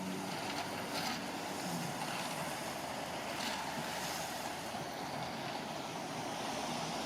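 Heavy construction machinery engine running steadily, mixed with a wash of wind-like noise.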